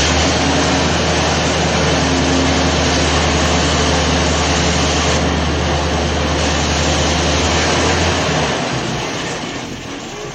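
Loud engine noise from a vehicle: a steady low hum under a wide rush of noise, fading away about eight seconds in.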